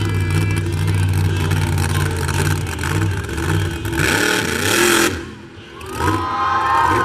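Monster truck engine running hard, held steady at first, then surging in loud bursts; it drops off briefly about five seconds in and revs back up with a rising whine near the end.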